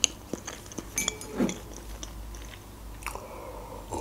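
Close-miked mouth sounds of a person chewing soft cake: scattered wet clicks and smacks about a second apart.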